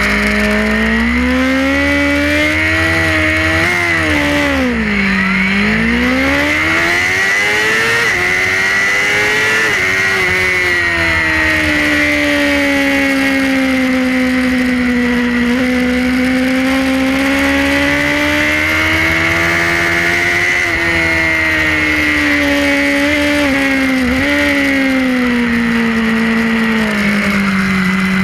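Suzuki GSX-R race bike's inline-four engine heard from on board at racing speed, its revs rising and falling through the gears. There is a deep drop in pitch about five seconds in, then it climbs again, with smaller dips later. A steady rushing noise lies beneath it.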